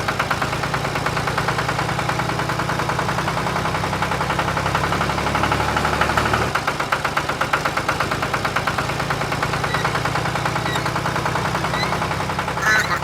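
Tractor engine running steadily at idle with an even, rapid beat; its sound shifts slightly about halfway through.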